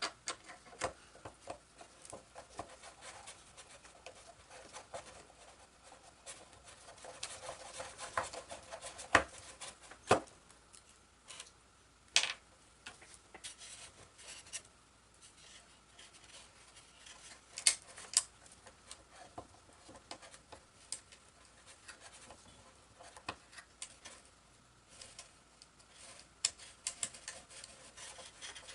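Hands working small hardware and parts on a model airplane's plywood firewall: scattered light clicks, taps and rubbing. The loudest are a few sharp knocks about 9, 10, 12 and 18 seconds in.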